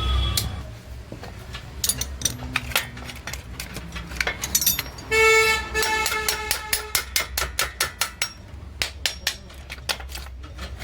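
Sharp metallic clicks and clinks of hand work on a motorcycle, repeated throughout. About five seconds in comes a short motorcycle horn beep, which trails on more faintly for about a second.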